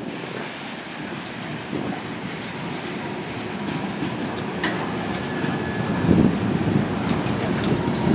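Freight train's flatcars rolling past: steady wheel rumble with clickety-clack over rail joints, a heavier clatter of wheels about six seconds in, and a faint thin wheel squeal about halfway.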